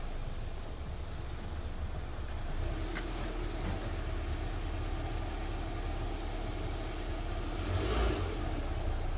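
A vehicle engine running steadily at a low rumble, with a click about three seconds in and a brief louder rush near the end.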